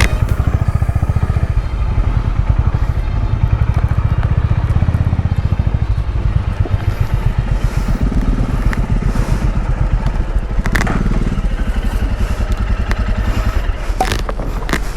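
Motorcycle engine running at low speed, a steady rapid beat of exhaust pulses, easing off near the end.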